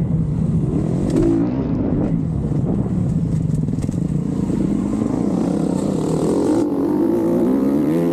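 Motocross dirt bike engine on a track, its revs rising and falling repeatedly as the rider works the throttle.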